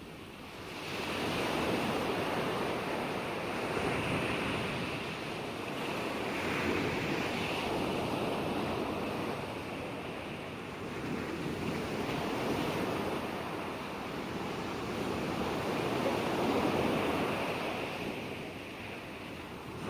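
Ocean surf: continuous waves breaking and washing in, swelling and easing every few seconds.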